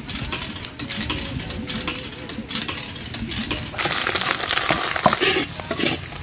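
Light clicks and crackles from a hot oiled wok, then, nearly four seconds in, shucked giant river mussel meat is tipped in and sets off a loud sizzle. A metal spatula scrapes and clacks against the wok as the meat is stirred.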